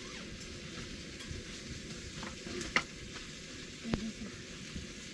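Campfire burning with a steady crackling hiss, broken by a couple of sharp pops from the wood, one nearly three seconds in and one about a second later.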